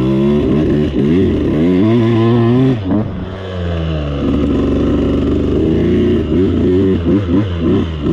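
Husqvarna 85 two-stroke dirt bike engine revving while being ridden, its pitch climbing under throttle. The revs drop sharply about three seconds in, then rise again and waver with quick throttle changes near the end.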